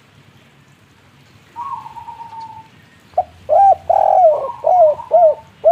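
Spotted dove cooing. A softer drawn-out note comes about one and a half seconds in, then a series of about six loud, rounded coos in the second half, one of them longer than the rest.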